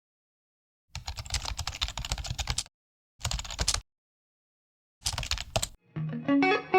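Rapid clicking of a computer keyboard being typed on, in three bursts with the first the longest. Guitar music starts near the end.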